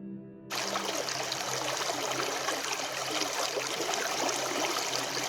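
Creek water running and trickling over rocks, a steady wash that starts abruptly about half a second in, as soft ambient music cuts off.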